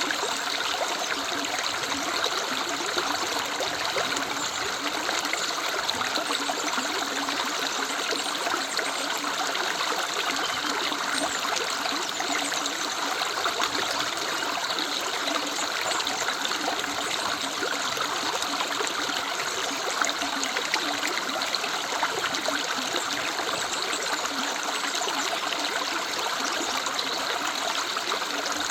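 River water running over stones, a steady rushing and trickling stream.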